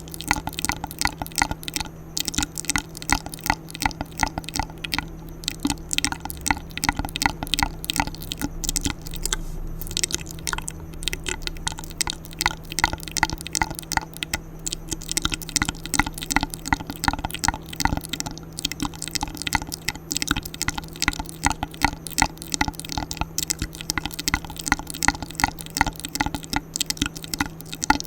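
ASMR mouth sounds: rapid, continuous wet clicks and smacks of lips and tongue, close to the microphone.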